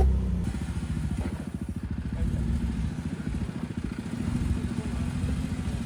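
Four-wheel-drive vehicle's engine running at low revs as it crawls a rock obstacle off-road, easing off for a couple of seconds and then picking up again.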